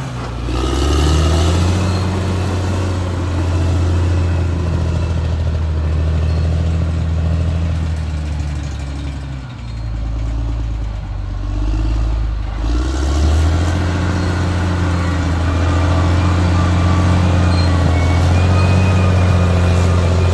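Caterpillar D6R XL bulldozer's diesel engine running steadily. About halfway through, its note drops lower for a few seconds, then climbs back up.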